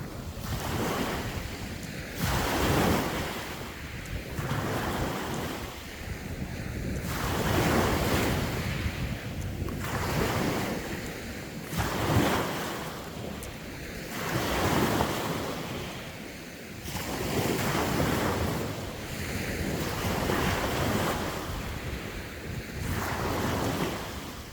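Sea waves breaking and washing on the shore, swelling and falling every two to three seconds, with wind on the microphone.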